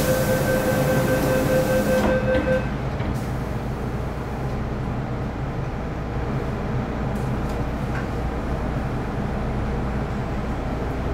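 A steady rumbling noise of a rail vehicle running. For the first two and a half seconds a steady tone sounds over it with a hiss, then stops suddenly.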